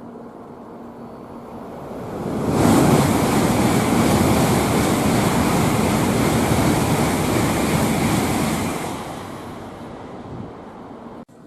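Tokaido Shinkansen bullet train passing at high speed without stopping: a rush of air and wheel noise that builds, jumps up suddenly about two and a half seconds in, stays loud and steady for about six seconds, then fades away.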